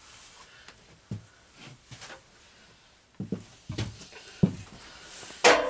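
Scattered light knocks and clicks of small objects being handled and set down, about half a dozen separate hits with quiet gaps between them, the loudest near the end.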